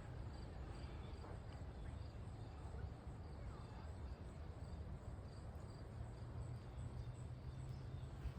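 Faint insects, likely crickets, chirping in an even rhythm of about two chirps a second over a low steady rumble.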